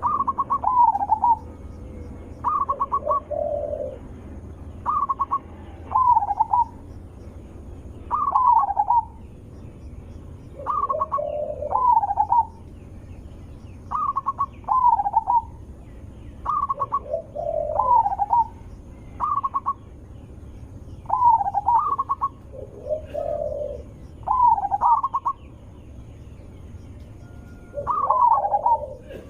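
Zebra dove (perkutut) cooing. It repeats a staccato phrase of quick notes that ends in a falling coo, about every one and a half to two seconds, with lower, softer coos in between. This is a loud-voiced perkutut song used as a lure call for other perkutut.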